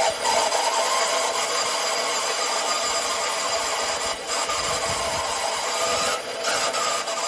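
Sawmill blade cutting steadily through a log, a continuous loud rasping run with a faint whine that rises as the cut begins.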